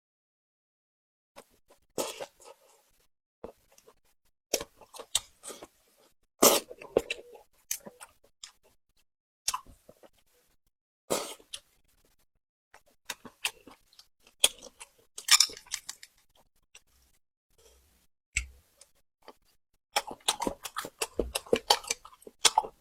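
Close-miked chewing and crunching of food in irregular bursts of sharp crackles and mouth clicks, with brief quiet gaps between bites. The crunching becomes dense and continuous near the end.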